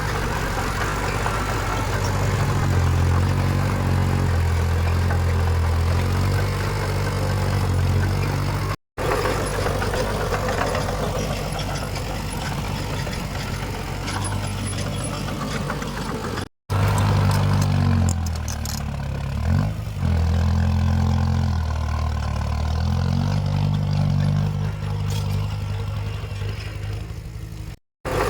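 Heavy diesel engine of earthmoving machinery working under load, its pitch rising and easing back several times. Brief complete dropouts break the sound about 9 s and 17 s in and again near the end.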